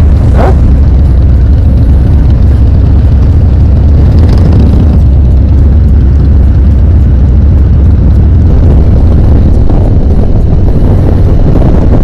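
Harley-Davidson motorcycle under way, its engine running steadily under heavy wind buffeting on the microphone. The loud low rumble sets in suddenly at the start.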